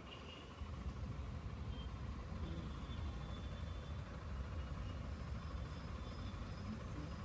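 Honda SP 160 motorcycle's single-cylinder engine running under way, heard from the rider with wind and road noise; the low rumble grows louder about half a second in.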